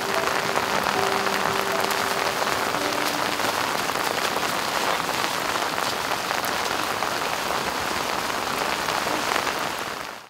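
Heavy rain falling steadily onto muddy ground and the elephants standing in it, an even hiss that fades out about ten seconds in.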